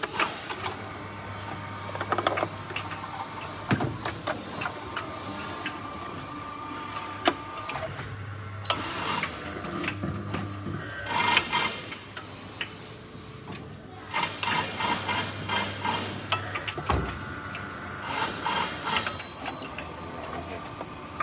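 A small electric motor on a machine humming low, starting and stopping several times, with bursts of rapid mechanical clicking and rattling.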